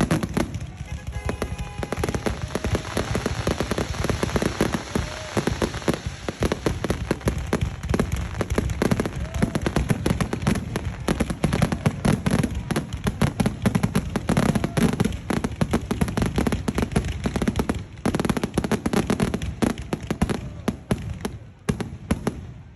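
Fireworks finale: a dense, unbroken barrage of booms and crackling bursts that stops suddenly near the end.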